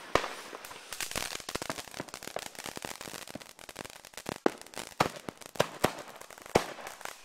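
Consumer fireworks going off on the ground: a rapid, irregular string of sharp pops and crackles over a hissing spray of sparks, with the loudest bang just after the start.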